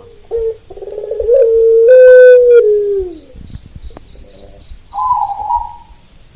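A rooster crows once in a long drawn-out crow lasting over two seconds, held on one pitch and then falling away at the end. About five seconds in, a shorter, higher bird call is heard, and a few short low notes sound just before it.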